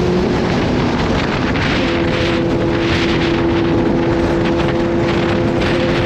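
Kawasaki Z H2's supercharged inline-four running at steady riding speed, its note shifting slightly about a second in and then holding even. Wind buffets the microphone in gusts over the engine.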